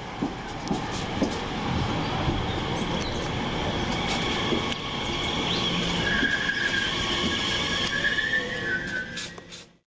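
Class 345 electric multiple unit moving through the station: steady rail rumble with clicks of wheels over rail joints and high steady whines. A high-pitched squeal comes in about six seconds in and falls slightly before the sound cuts off suddenly near the end.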